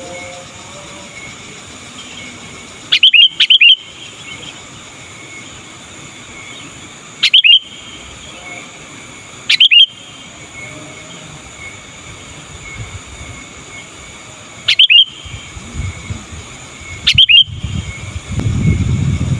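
Sooty-headed bulbul (kutilang) giving short, loud, liquid call phrases five times, a few seconds apart. A low rumble starts near the end.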